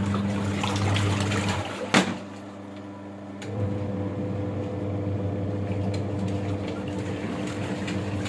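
Semi-automatic washing machine's wash tub motor humming with water churning in the tub. It stops with a sharp click about two seconds in, and a steady motor hum resumes about a second and a half later.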